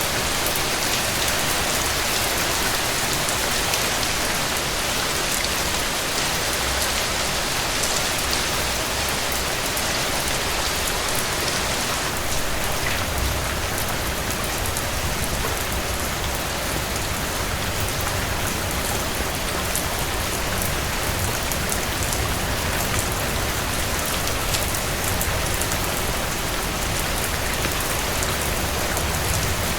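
Heavy rain falling steadily on a cabin porch: an even hiss with scattered sharp ticks and a low rumble underneath that grows slightly stronger about twelve seconds in.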